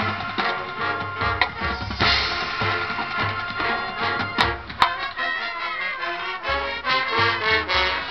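High school marching band playing its competition show: full brass and wind chords over drums, with a couple of sharp percussion hits about halfway through.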